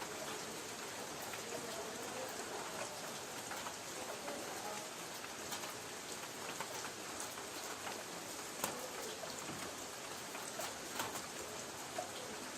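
Light rain on a tin roof: a steady patter with scattered louder single drops striking the metal.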